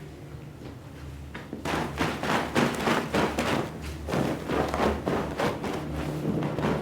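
Rapid, repeated strokes working over a wet shag rug, starting a little under two seconds in and going on at several strokes a second.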